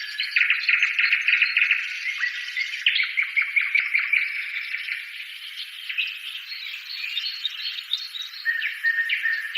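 Birds chirping and trilling: a dense chorus of rapid high trills and short whistled notes.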